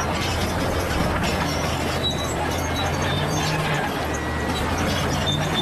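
Crawler bulldozer's diesel engine running steadily under a dense rattle of steel tracks, with scattered high squeals.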